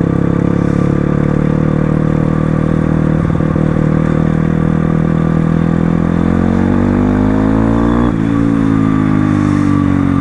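Crossfire RM250 dirt bike engine running under way, heard while riding. Its note holds steady, then climbs for about two seconds, drops abruptly about eight seconds in as on an upshift, and carries on at a lower pitch.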